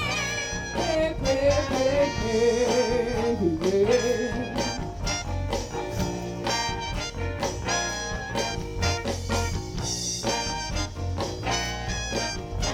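A live soul band plays with its horn section of saxophone, trombone and trumpet over drums, bass and keyboard. In the first few seconds a melody line with a wide vibrato stands out, and the dense band sound carries on over a steady beat.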